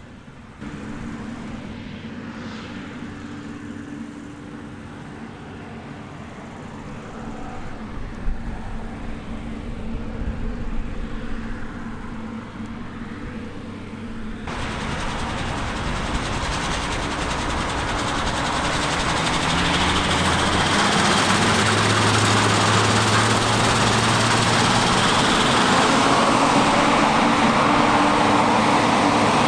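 Heavy harvest machinery running, a steady engine hum; about halfway through the sound changes abruptly to a louder rushing machine noise that keeps building toward the end as the machine comes closer.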